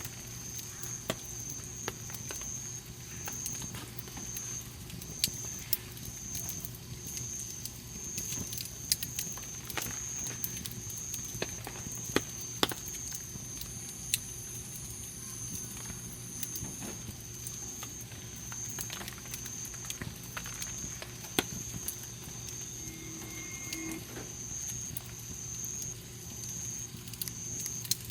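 Wood campfire burning, crackling steadily with frequent sharp, irregular pops, a few of them loud.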